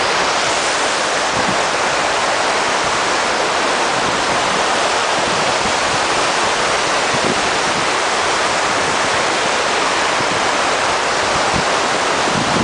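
Waterfall crashing down, a steady, loud roar of falling water.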